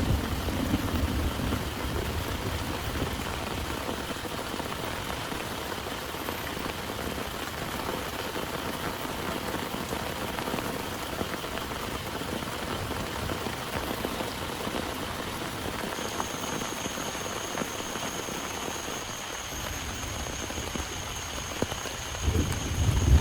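Heavy rain falling steadily. A thunder rumble fades out in the first second or so, and another starts to build near the end.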